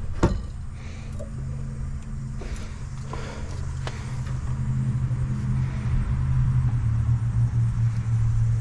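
A motor vehicle's engine running steadily, with a low hum that grows louder from about halfway through, and a sharp click right at the start.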